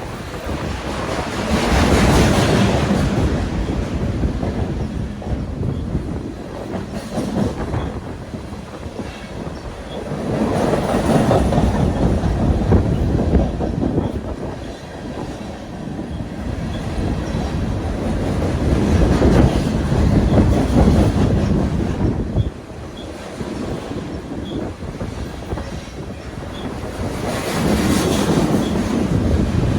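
A CSX freight train rolling past on the rails, its noise swelling and easing every several seconds as the cars go by.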